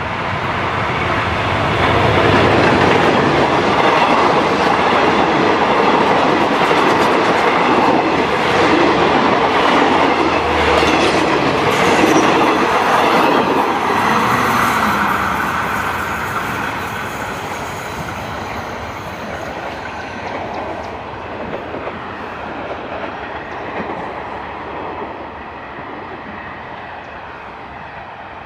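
Diesel-hauled passenger train passing close by on the rails, the locomotive then the coaches rolling past. The sound swells over the first couple of seconds, stays loud through the middle, then fades steadily as the train moves away.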